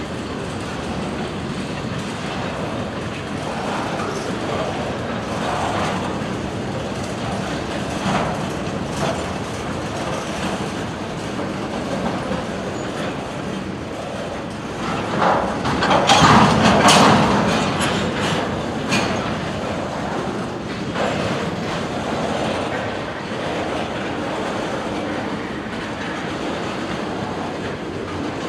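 Freight train cars rolling past, with steel wheels clacking and clanking over the rail joints. About halfway through there is a louder stretch of sharp clanks and high squealing.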